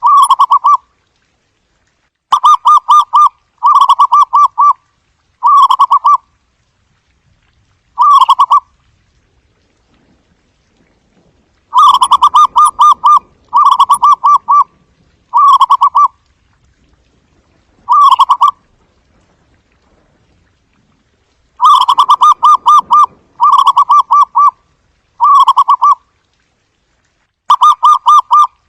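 Zebra dove calling: short bursts of rapid staccato cooing notes, each burst under a second long. The bursts come in runs of three or four, with pauses of a few seconds between the runs.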